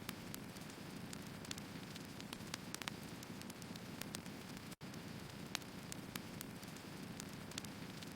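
Burning firewood crackling: irregular sharp pops and snaps over a steady low rush of the fire.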